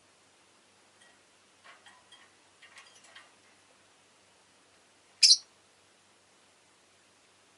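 A rosy-faced lovebird gives one loud, brief, high chirp about five seconds in, after a few faint soft chirps and clicks between two and three seconds in.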